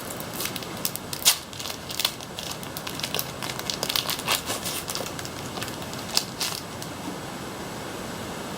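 Foil wrapper of a Pokémon TCG booster pack crinkling as it is torn open: a rapid run of sharp crackles that thins out about six or seven seconds in.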